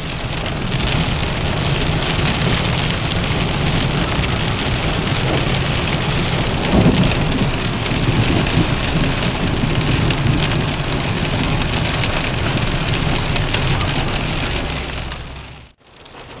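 Steady sleet and rain falling, with a low rumble of thunder underneath and a brief louder swell about seven seconds in.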